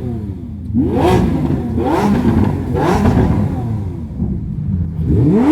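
A car engine revved in three quick blips, each rising and falling in pitch, then a longer rev near the end that climbs and holds.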